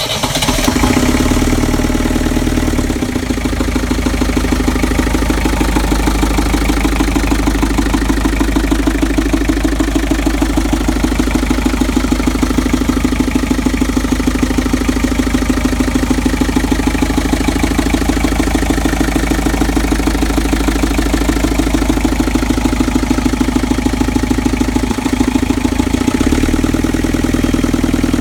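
Moody 34 yacht's inboard diesel engine idling steadily just after a start, with an even, rapid beat.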